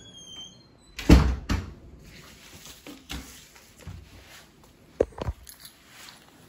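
A door bumps shut about a second in, with a second knock just after it. Two sharp clicks follow around five seconds in.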